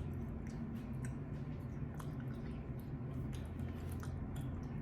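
Chewing and mouth sounds of a person eating chicken wings, with many short, soft clicks over a steady low hum.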